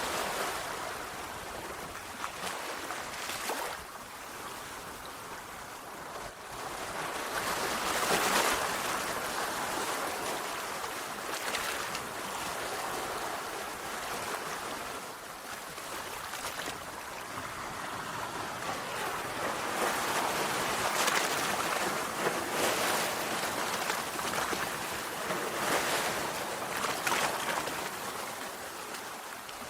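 Sea waves breaking and washing on a shore, a steady rush of surf that swells and ebbs every few seconds, loudest about a third of the way in and again past the middle.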